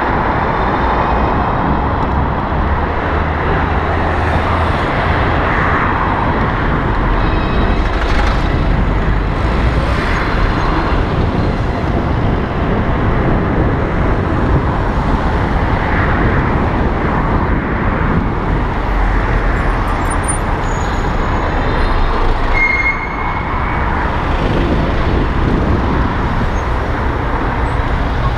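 Continuous road and traffic noise while riding an electric bicycle along a street, with a steady low rumble and a brief high beep near the end.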